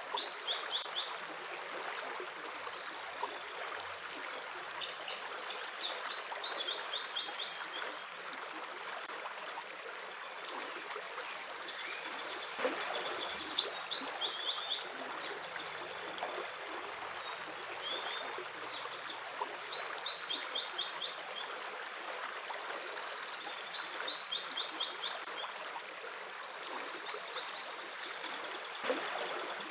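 A stream rushing steadily, with small birds singing over it: short phrases of quick, repeated high notes every few seconds.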